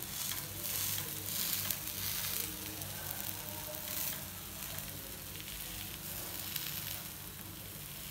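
Chana dal vadas sizzling in a little oil on a hot iron tawa as a steel spatula presses them down. The sizzle swells in the first couple of seconds and again about four seconds in.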